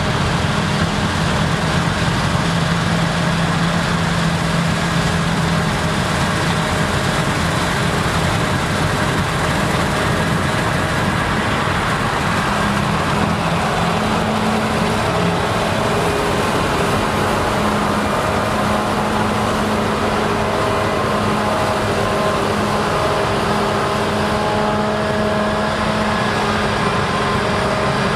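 Claas Lexion combine harvesters running steadily while harvesting rye, a dense mechanical drone whose engine tones shift in pitch about halfway through.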